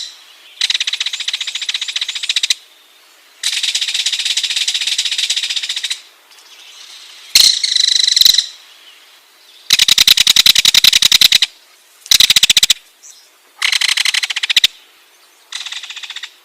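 Ringed kingfisher calling in a series of harsh, rapid rattles, about seven bouts each lasting from half a second to two and a half seconds, separated by short pauses.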